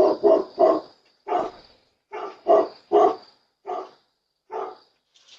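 A dog barking repeatedly, about nine barks in an uneven rhythm.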